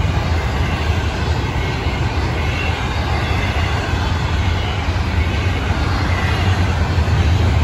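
Florida East Coast Railway intermodal freight train's double-stack container well cars rolling past, a steady low rumble of steel wheels on rail.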